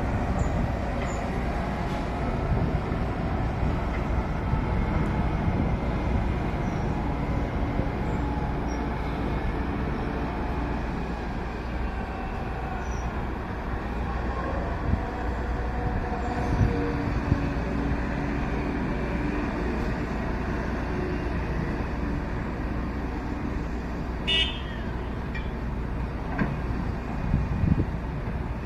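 Loaded dump truck driving, its engine running steadily with a continuous low rumble. A short vehicle-horn toot sounds near the end.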